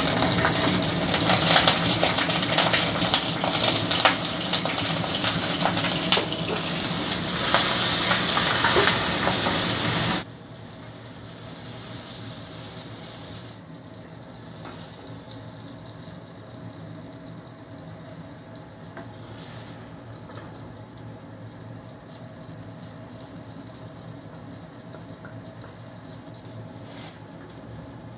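Red chilies frying in hot oil in a wok: loud crackling sizzle that drops suddenly about ten seconds in to a much quieter, steady sizzle and hiss.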